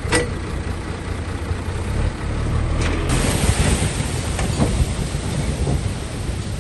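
Heavy diesel earthmoving machinery, a bulldozer and dump trucks, running with a deep, steady rumble. A sharp knock comes right at the start, and a sudden hiss begins about halfway through and fades over about a second.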